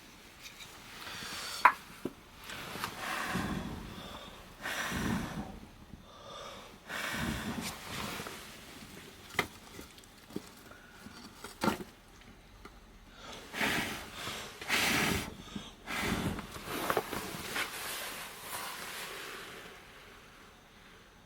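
Firewood burning in the firebox of a wood-fired bath, crackling with sharp pops now and then among irregular swells of noise, each lasting about a second.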